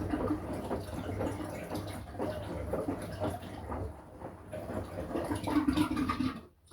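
Washing machine in its wash cycle: water sloshing as the drum tumbles the laundry, over the low hum of the motor. It stops abruptly near the end.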